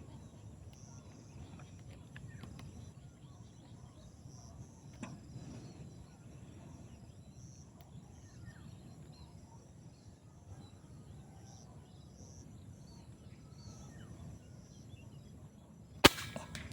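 Low outdoor background with faint bird and insect calls, then near the end a single sharp crack: a PCP air rifle shot.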